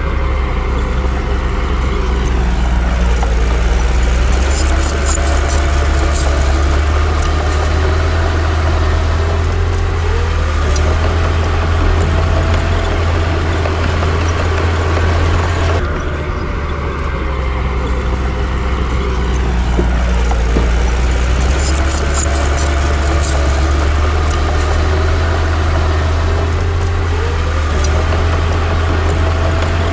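Bulldozer's heavy diesel engine running loud and steady, its pitch sagging and then climbing back as it takes load, with clusters of short high metallic clinks. The same sequence plays again about halfway through.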